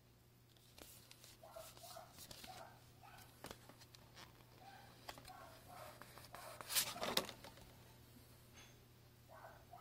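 Quiet handling noises: rustling and scattered clicks of packaging and a small plastic device being handled, with a burst of sharper clicks about seven seconds in.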